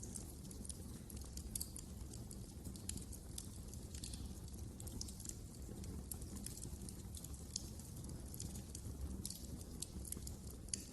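Wood fire crackling in a fireplace: many small, irregular pops and snaps over a low, steady rumble.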